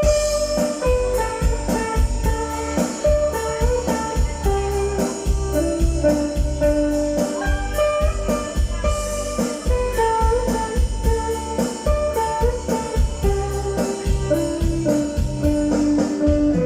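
Guitar-led music with drums and a steady beat, heavy in the bass, played through an outdoor PA system with subwoofer cabinets as a sound check.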